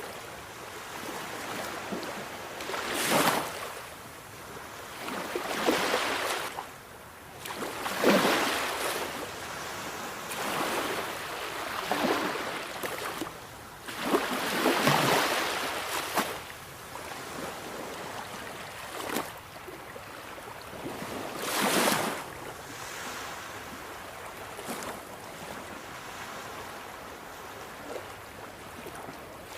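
Sea waves breaking and washing in, in irregular surges of surf a few seconds apart, with a steady hiss between them.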